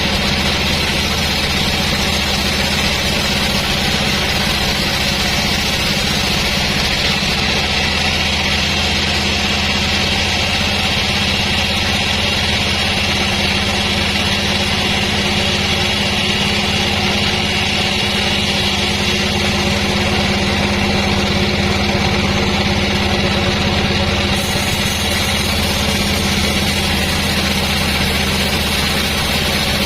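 Sawmill machinery running steadily, a constant engine-driven hum.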